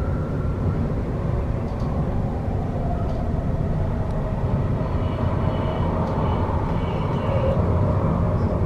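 Passenger train running at speed, heard from inside the carriage: a steady rumble of wheels on rail, with a faint high whine in the second half.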